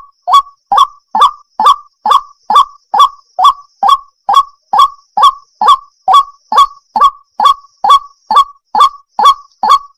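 Waterhen calling: a steady series of short, harsh, identical notes, about two to three a second, evenly spaced.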